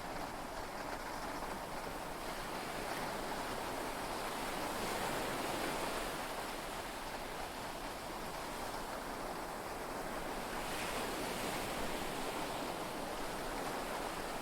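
Sea waves and heavy rain heard from inside a yacht cabin: a steady wash of noise that swells and eases slowly, with no thunderclap in it.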